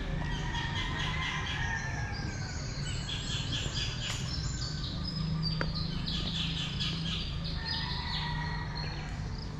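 Small birds chirping in quick, repeated high notes, with several calls overlapping, over a steady low hum.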